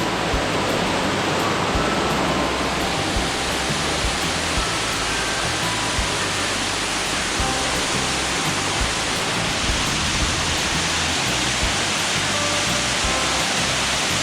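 Waterfall and the water rushing below it: a steady, unbroken roar of falling water.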